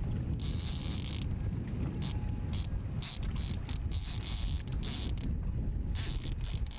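Heavy fishing reel being cranked in short, uneven spells of high buzzing while a white sturgeon is brought in, over steady wind rumble on the microphone.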